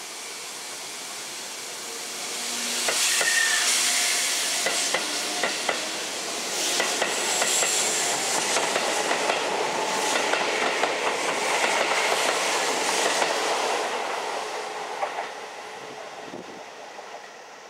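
Keisei 3500-series electric commuter train running past and pulling away, its wheels clacking over the rail joints. The noise builds a few seconds in, stays loud for about ten seconds, then fades near the end.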